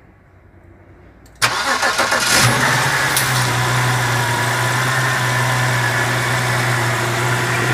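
BMW 730's engine cranks and starts about a second and a half in, then settles into a steady idle, heard from beneath the car. It runs with the automatic transmission's pan off, so the pump pushes fluid out of the open valve body for a flush.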